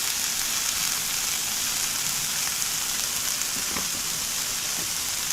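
Shrimp frying in oil on a grill, a steady sizzling hiss.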